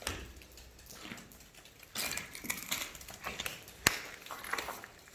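Crunching and clattering of scrap wood being handled and broken up for a campfire, with scattered clicks and one sharp knock about four seconds in.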